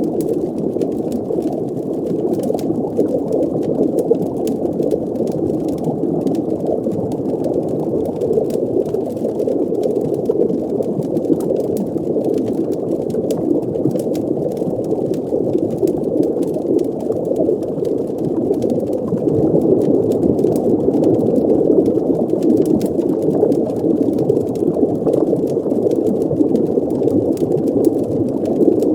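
Muffled underwater fireplace ambience: a steady dense rush of bubbling water, with faint crackling clicks scattered through it.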